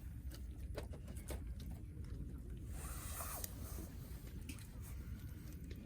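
Campfire crackling: scattered sharp pops over a steady low rumble, with a brief louder, hissier stretch about three seconds in.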